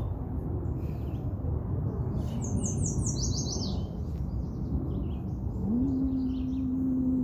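Birds chirping outdoors, with a quick run of high, falling notes about two to three seconds in and scattered chirps after, over a steady low rumble. A steady low hum-like tone starts near the end.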